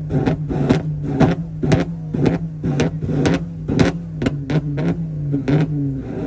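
Car engine held at high revs, its steady drone cut by sharp cracks or pops about two a second: a car being revved hard and continuously.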